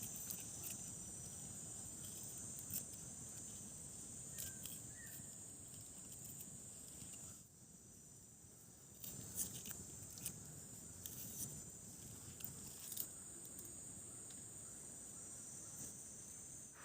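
Faint, steady high-pitched chorus of forest insects, with scattered light clicks and taps; the sound dips briefly about halfway through.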